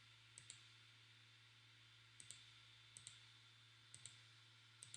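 Faint computer mouse button clicks: five quick click-and-release pairs spread through, over a low steady hum.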